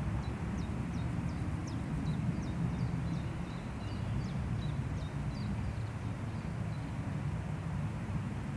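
Wind rushing through forest trees with a steady low rumble, while a small bird repeats short, high, downward-sliding chirps about three times a second for the first five seconds or so.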